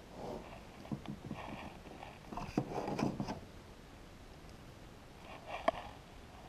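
Scattered light knocks and clicks with soft rustling in between, the sharpest knocks about a second in, around two and a half to three seconds in, and near the end.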